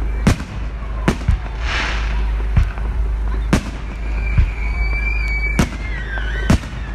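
Aerial fireworks exploding in a display: sharp bangs about once a second, with a short burst of crackle about two seconds in. From about four seconds a high steady whistle sounds, dipping slightly in pitch before a bang near the end.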